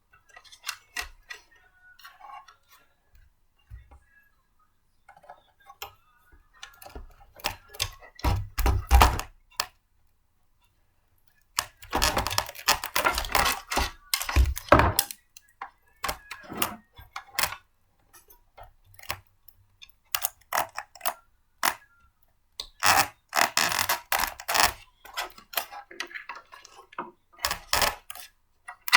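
Hard parts of a blender clicking, tapping and clattering as they are handled and fitted together by hand. The clicks and knocks come irregularly, in dense clusters with short quiet gaps between.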